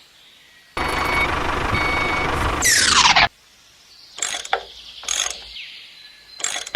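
Truck engine running with a reversing beeper sounding twice, cut off suddenly by a falling whoosh. Short scraping strokes follow, about one a second.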